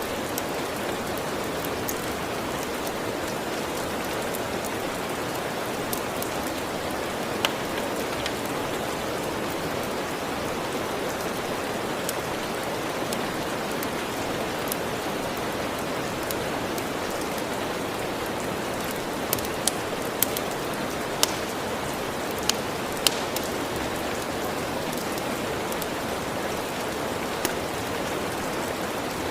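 Steady rain falling, an even hiss, with a few sharp crackles from a wood fire: one early, a cluster of several about two-thirds of the way through, and one more near the end.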